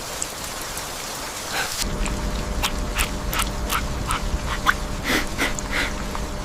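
Steady rain with drops pattering. From about two seconds in, a deep rumble and a steady low hum join underneath it.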